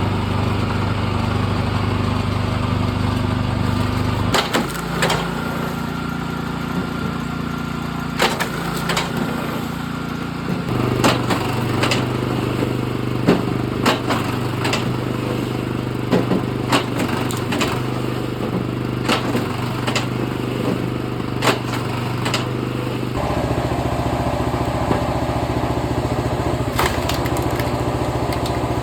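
Engine-driven log splitter running steadily, its engine note shifting several times, with repeated sharp cracks and knocks of logs splitting and being handled.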